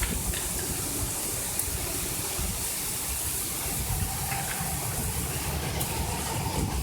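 Steady hiss of heavy rain, with wind buffeting the microphone in a low, uneven rumble.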